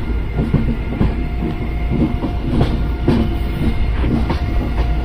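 Indian Railways passenger train running on the track, heard from the open doorway of a moving coach: a steady rumble with irregular clacks of the wheels over the rails.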